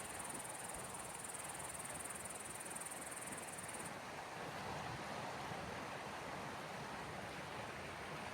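Soft, steady wash of small sea waves on the shore of the Gulf of Finland, with a thin high-pitched trill over it that cuts off about four seconds in.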